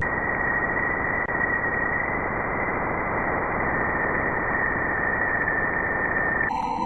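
Spacecraft recording of a planet's electromagnetic emissions converted into audible sound: a steady dense hiss with a thin high whistle held above it. It cuts off abruptly near the end into a different, more tonal space sound.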